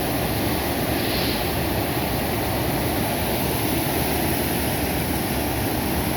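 Steady rush of water pouring from a reservoir (açude), a strong, even flow.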